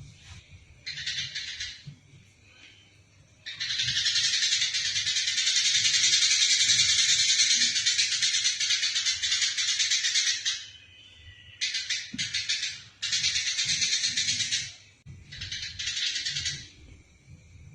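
Eurasian tree sparrows giving fast, harsh chattering calls, the aggressive calls of sparrows fighting. A short burst comes first, then one long unbroken chatter of about seven seconds, then several shorter bursts near the end.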